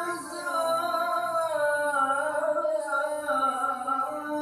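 Male qari reciting the Quran in the melodic tilawah (qiroah) style, holding one long vowel that winds slowly up and down in pitch in an ornamented melisma.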